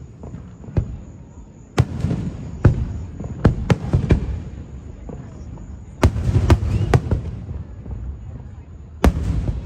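Aerial fireworks shells bursting overhead: about a dozen sharp booms in quick clusters, each trailing off in a low rumble.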